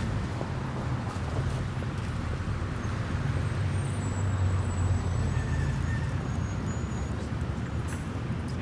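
City street traffic: a steady low rumble of engines and tyres from passing cars and heavier vehicles, swelling toward the middle, with a few faint high squealing tones midway.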